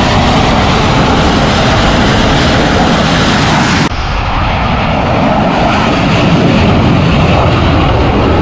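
Loud, steady jet aircraft engine noise. About four seconds in the sound changes abruptly to a duller take with less hiss.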